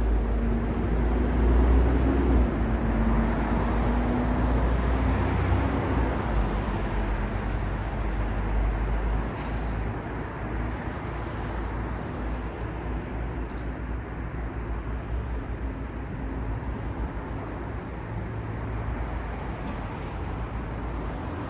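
City street traffic: a heavy vehicle's engine hum is loudest in the first few seconds and fades, over a steady rumble of road noise. A brief high hiss comes about nine seconds in.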